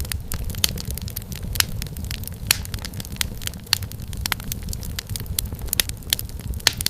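Wood fire crackling: a steady low rumble of the burning logs with many sharp, irregular pops and snaps of firewood, several each second.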